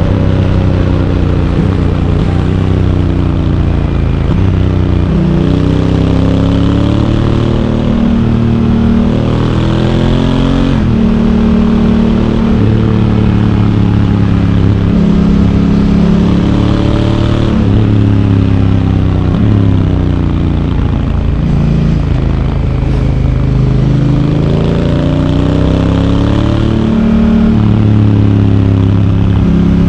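Honda Africa Twin's parallel-twin engine under way, heard from the bike. It climbs in pitch under acceleration, and the pitch drops abruptly at each upshift of the DCT dual-clutch gearbox, with some slower falls as the bike slows and pulls again.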